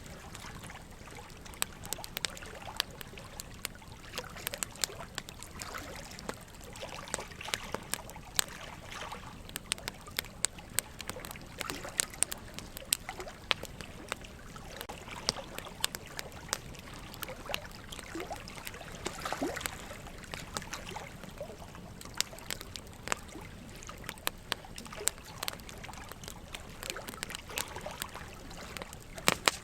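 Burning logs crackling in a fireplace: irregular sharp snaps and pops over a steady trickle of flowing water.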